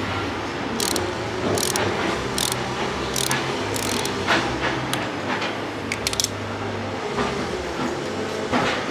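Irregular metallic clicks and clinks of hand tools working on a motorcycle engine, over a steady low hum.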